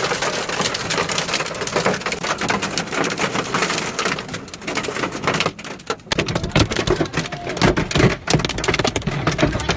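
Heavy hailstorm: large hailstones pelting down in a dense clatter of hard impacts, with heavier thuds joining from about six seconds in.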